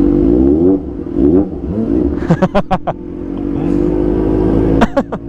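Kawasaki ZX-25R inline-four engine through an Arrow Pro Race exhaust, revving up and down in several quick rises as the bike is ridden. There is a short run of sharp pops about two and a half seconds in, and another shortly before the end.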